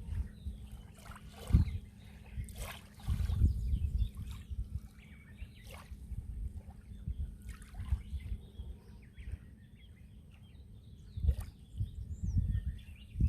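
Small sea waves lapping and splashing at the water's edge in irregular slaps, with low thudding rumbles between them.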